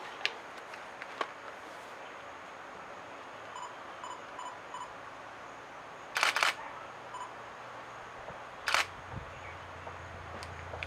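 Camera shutter firing: a quick burst of clicks about six seconds in and a single click near nine seconds. Before that, a faint series of evenly spaced short notes near 1 kHz, a coppersmith barbet's repeated call.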